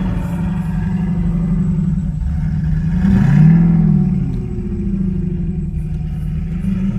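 Car engine running with a low, steady drone, revved once about three seconds in, its pitch rising and then falling back.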